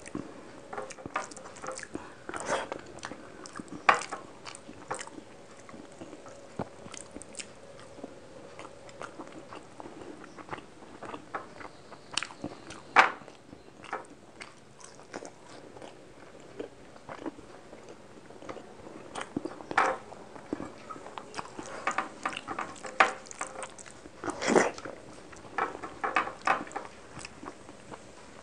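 Close-miked chewing and mouth smacking while eating rice and fish curry by hand: irregular wet clicks and smacks, a few louder than the rest.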